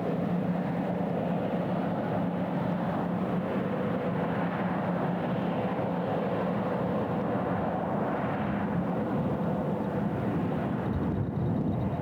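A passing ship's diesel engine droning steadily: a constant low hum over a wash of noise.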